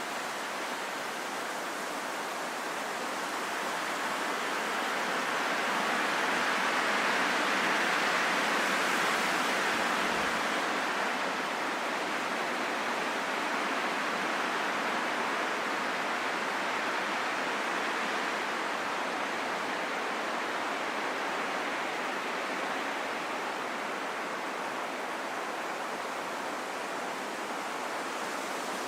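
Wind rushing steadily, swelling into a stronger gust about six to ten seconds in, then slowly easing.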